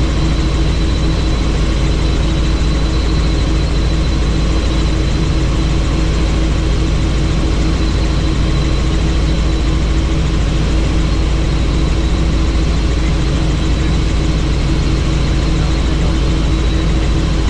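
Helicopter in steady flight heard from on board, its engine and rotors making a loud, unchanging drone with a steady whine on top, the open doors letting in the rush of air.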